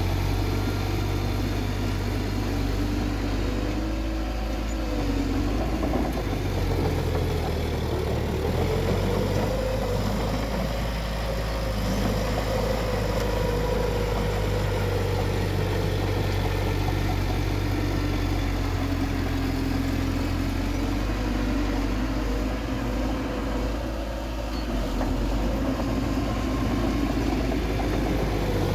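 Bulldozer's diesel engine running continuously, its pitch drifting slightly up and down.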